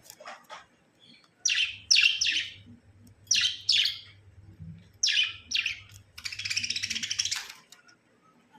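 Budgerigar giving short, sharp chirps in groups of two and three, then a raspy, fast-pulsing chattering call lasting about a second near the end.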